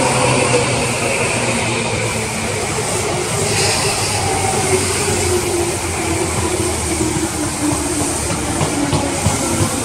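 Tobu 10030 series electric train pulling into a station: wheels running on the rails with a motor whine that falls slowly in pitch as the train slows.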